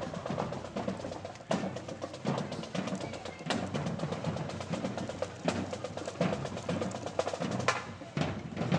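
Marching band drumline playing a cadence: a dense run of sharp, crisp snare strokes and clicks over deeper drum hits.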